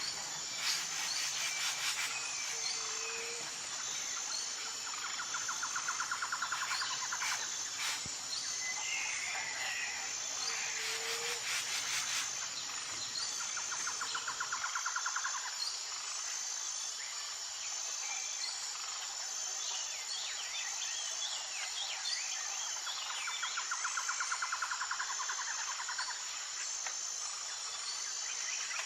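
Morning chorus of birds chirping and calling over a steady, high, pulsing drone of insects, with one bird's rapid trill repeated three times, roughly every nine seconds.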